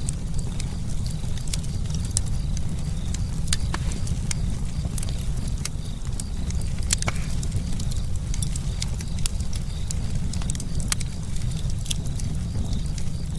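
Campfire burning with a steady low rumble and irregular sharp crackles and pops of burning wood, a few louder snaps among them.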